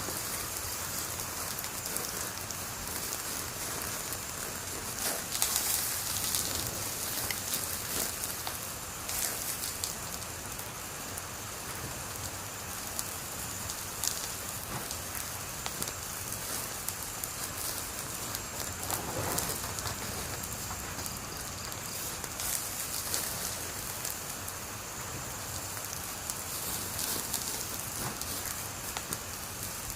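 Wood fire burning: a steady hiss of flames with scattered crackles and pops, a few of them louder, about five, nine, fourteen and nineteen seconds in.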